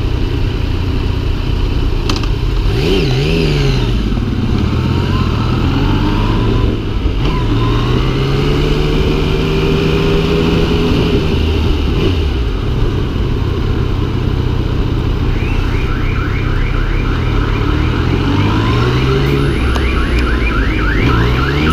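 Yamaha MT-09's three-cylinder engine running under the rider, its revs rising and falling several times with the throttle in slow traffic, over steady road and wind noise. A fast repeating electronic warble sets in past the halfway mark.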